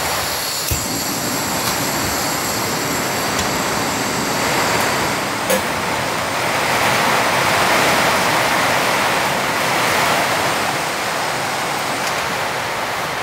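Heavy rain pelting the cabin roof, a loud steady hiss that swells a little in the middle, with a few light knocks and clinks of cookware.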